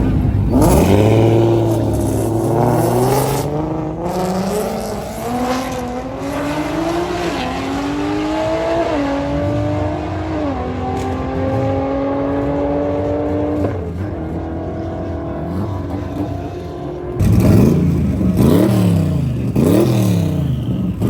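A car engine accelerating hard, its pitch climbing and dropping back at several upshifts for the first dozen or so seconds. Near the end comes an engine revved up and down repeatedly.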